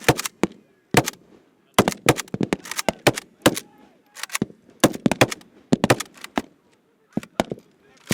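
Small-arms fire from several rifles: irregular sharp shots, singly and in quick clusters, with faint shouting between them.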